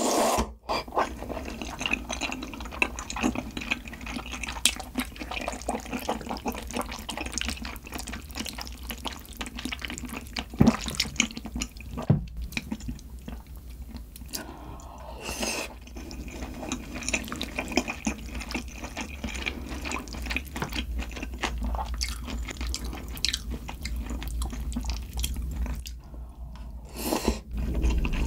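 Close-miked eating sounds: wet slurping of malatang noodles and broth with chewing and many short clicks, broken by a few brief pauses.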